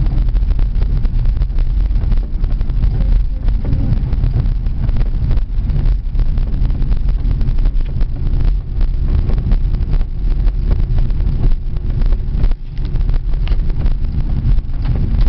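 Car driving, with steady low engine and road rumble heard from inside the cabin and wind buffeting the microphone.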